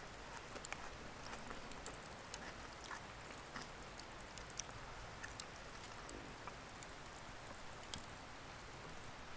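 Campfire crackling faintly: small irregular pops and ticks scattered over a low hiss.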